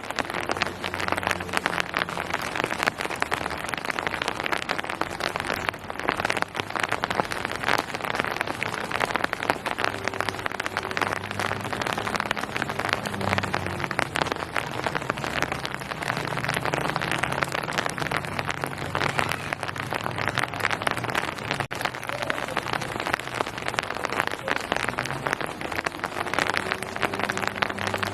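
Steady rain falling and pattering on surfaces, a dense hiss of many small drop ticks, with a faint low hum underneath.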